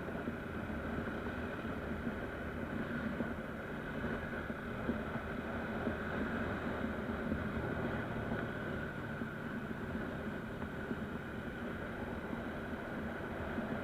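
Motorcycle engine running steadily on the move, with wind and road noise, picked up by an SJCAM action camera's microphone.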